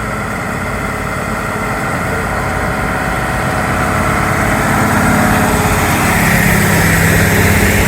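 A vehicle's engine running as it drives through floodwater, getting steadily louder, with a rushing wash of water that builds over the last few seconds.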